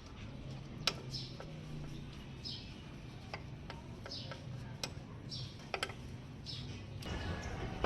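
Sharp metal clicks and taps of hand tools being handled and set down, a handful of them scattered irregularly. Behind them, a short high falling chirp repeats about once a second.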